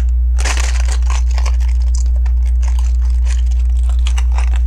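Plastic LEGO bricks clicking and rattling as they are handled and stacked, a run of irregular small clicks, over a steady low electrical hum.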